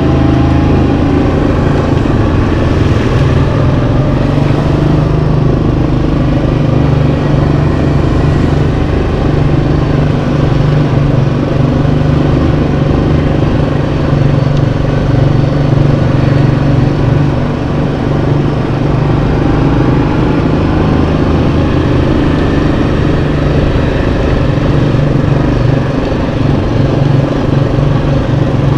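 Yamaha Kodiak 700 ATV's single-cylinder four-stroke engine running steadily while riding, its pitch rising and falling slightly with the throttle.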